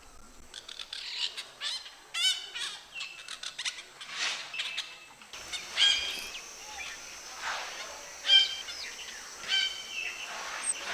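Red-breasted parakeets of the Andaman subspecies calling: an irregular string of short, high, shrill calls, loudest about six seconds in and again a little after eight seconds.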